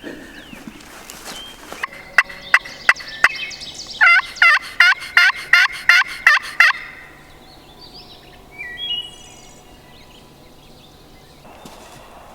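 Loud, close wild-turkey calling, typical of a hunter's turkey call: a few sharp clucks, then a quick run of about nine yelps. Faint, distant bird calls follow.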